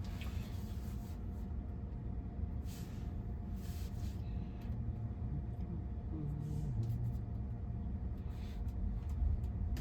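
Low steady rumble and hum inside a stationary car's cabin while it waits at a red light, with a few brief soft swishes.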